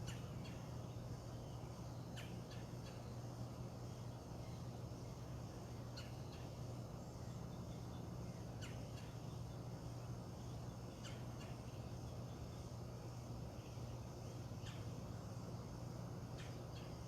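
Birds giving short, scattered high calls every few seconds over a steady low hum.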